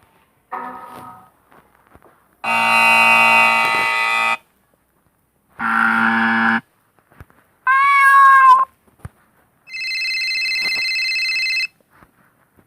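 A run of short, separate sound effects with gaps between them: a brief fading tone, two held tones, a short call that rises and falls in pitch, and a steady buzzing tone of about two seconds.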